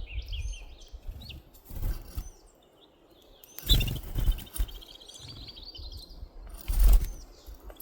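Birds singing: scattered high chirps and a rapid trill of repeated notes. A few dull, low bumps or rumbles cut through, the loudest near the end.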